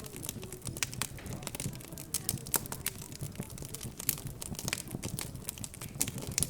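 Wood fire crackling in a fireplace: irregular sharp pops and snaps, several a second, over a low murmur of background chatter.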